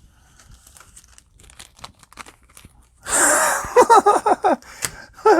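Trading cards and their foil pack wrapper being handled: faint rustling and clicks, then about three seconds in a loud crinkling, tearing rustle. Short high voice sounds follow, with one falling in pitch near the end.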